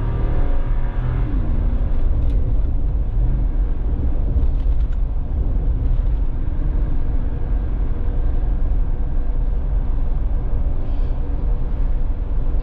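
Inside the cabin of a 2013 Lexus GX460 with a Magnaflow muffler: the 4.6-litre V8 and exhaust running steadily under way over low road rumble. The engine note shifts slightly in pitch a couple of times in the first few seconds, then holds steady.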